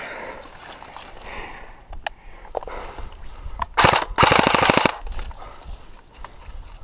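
Airsoft rifle firing a full-auto burst of about a second, a rapid even run of pops, with a few single pops just before it.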